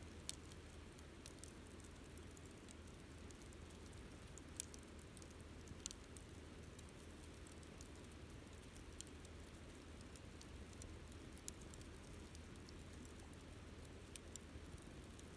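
Wood campfire burning quietly: a soft steady rumble and hiss of flames with sparse, sharp crackles and pops, the two loudest about a third of the way in and about three quarters of the way in.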